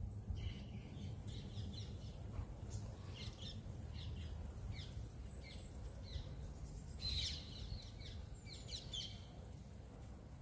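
Small birds chirping faintly, scattered short calls with a busier cluster about seven seconds in and another near nine, over a steady low rumble.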